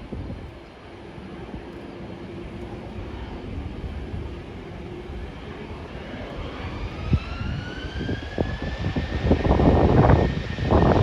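Airbus A380's four Rolls-Royce Trent 900 engines building to takeoff thrust. A whine rises in pitch from about six seconds in and levels off, while a low roar grows louder, loudest near the end.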